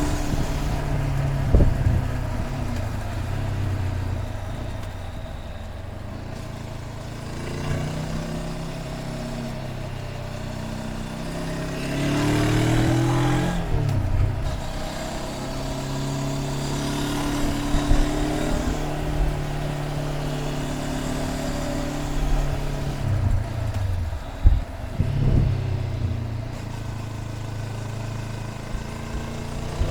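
Honda CB500X's parallel-twin engine under way, its note climbing under throttle, dropping sharply at a gear change or roll-off about halfway through, then holding steady before falling away again near the end.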